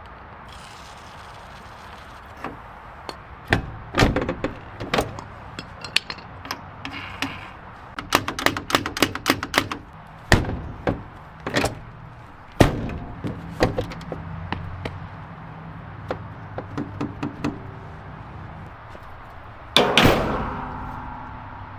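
Irregular knocks, taps and clicks from hands-on mechanical work on an old car, with a quick run of small clicks around the middle and a louder ringing clank near the end.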